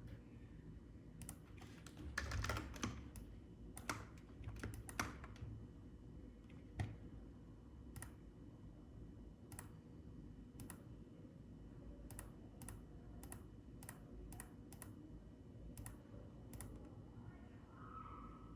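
Computer keyboard keys clicking: a quick flurry about two seconds in, a few more around four to five seconds, then single clicks spaced about a second apart, over a faint low hum.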